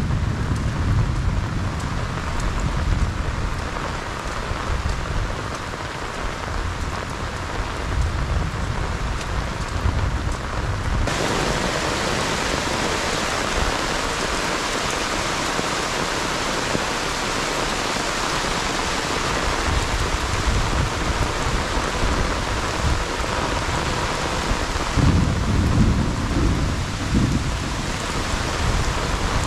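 Heavy rain falling steadily on grass, trees and flooded paddy fields: an even hiss of rain. A low rumble sits under the rain for the first third and returns briefly near the end, and about eleven seconds in the rain sound changes abruptly to a brighter, denser hiss.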